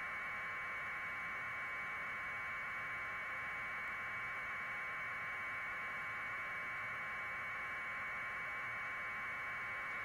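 Steady static hiss confined to a mid-pitched band, unchanging throughout, with no other sound.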